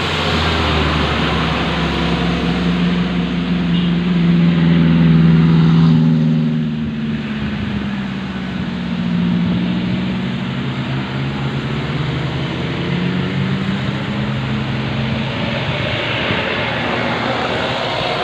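Engines of fully loaded garbage dump trucks labouring under load, the engine note rising and falling. The loudest stretch is around five seconds in.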